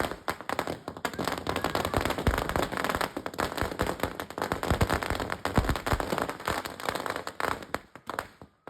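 Firecrackers going off in a fast, unbroken run of sharp pops and crackles, thinning out and stopping near the end.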